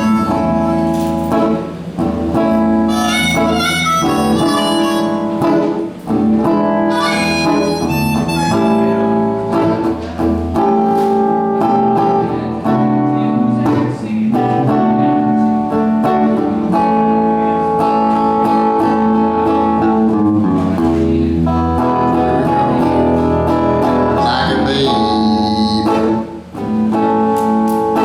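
Harmonica playing a melody with sustained notes over a guitar accompaniment.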